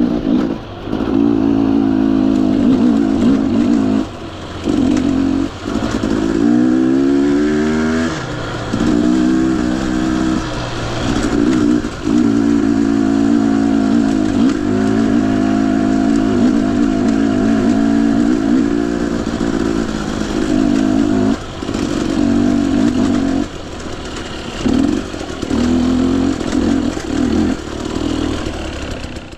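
Single-cylinder two-stroke engine of a 2021 Husqvarna TE 250i dirt bike being ridden, the throttle repeatedly opened and closed: the engine note rises and falls in pitch and drops off briefly again and again between bursts.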